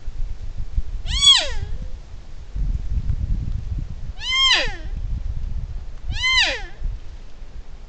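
Young spike buck deer bleating three times, each call a short nasal cry that rises and then falls in pitch, a few seconds apart, over a low rumble.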